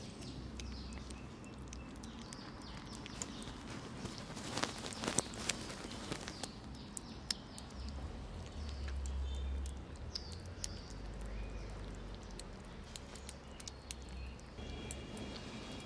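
Kittens eating: a scattered run of small wet chewing and smacking clicks.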